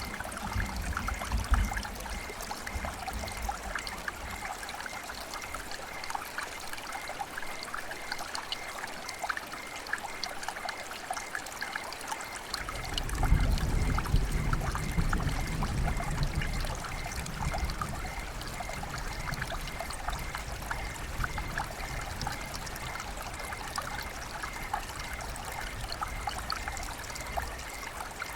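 River water flowing steadily, with many small trickles and splashes. A low rumble underneath fades for several seconds, then comes back strongly about halfway through and eases off again.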